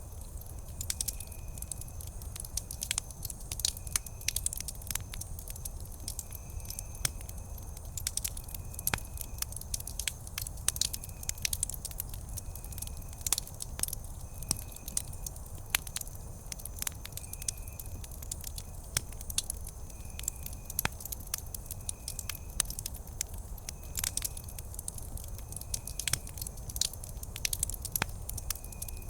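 Wood campfire crackling steadily, with many sharp irregular pops and snaps over a low rumble of the burning fire. A faint short high chirp repeats about once a second behind it.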